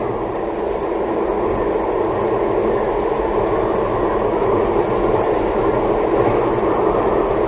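Steady tyre and wind noise inside the cabin of a Toyota Tank minivan cruising at highway speed, growing slightly louder.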